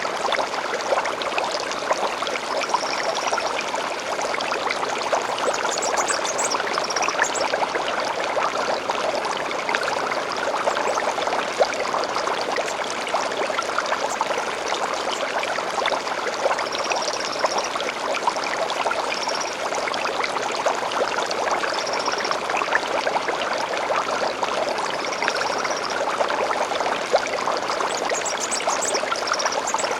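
Small stream flowing steadily, with short high bird calls every few seconds and a couple of quick chirping runs.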